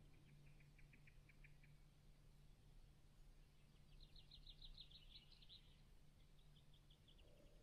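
Near silence, with three runs of faint, high, rapid trilling ticks from a small bird, the clearest about four seconds in.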